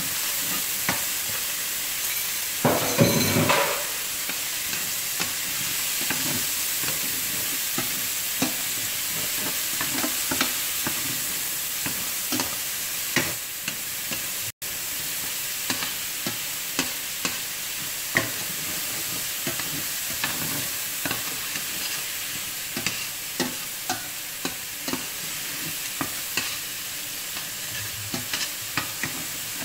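Diced ham, onion and garlic sautéing in a stainless steel pan: a steady sizzle, with frequent clicks and scrapes of metal tongs stirring against the pan and a louder clatter about three seconds in.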